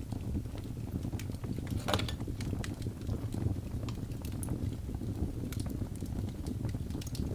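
Wood fire burning in a fireplace: a steady low rumble of flames with irregular sharp crackles and pops from the logs, one louder pop about two seconds in.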